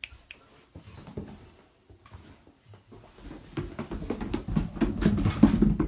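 A dog's paws pattering and thudding down stairs: scattered light clicks at first, then quicker, heavier thumps that grow louder over the last two seconds or so.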